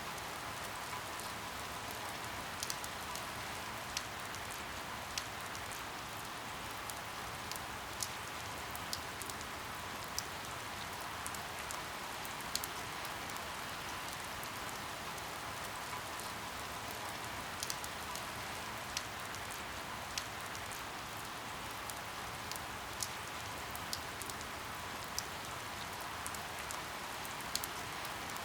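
Steady rain, an even hiss, with scattered sharper drop ticks at irregular moments.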